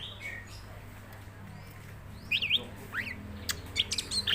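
Cucak ijo (green leafbird) singing: quick, sharp chirps and whistles that sweep up and down in pitch, sparse at first and coming thick and fast from about two seconds in. A low steady hum runs beneath.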